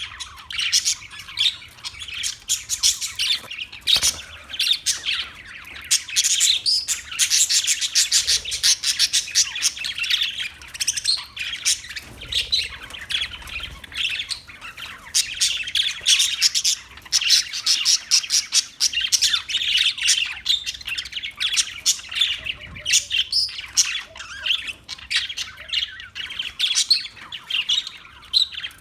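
Parakeets chirping and squawking without pause, with short calls tumbling over one another.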